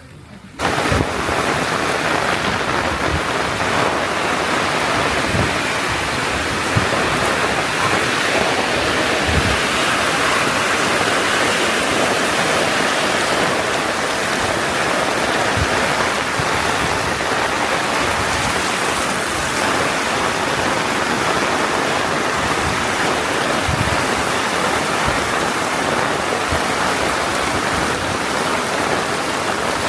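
Heavy tropical downpour, a steady loud hiss of rain that starts abruptly about half a second in, with scattered low thuds of drops striking close by.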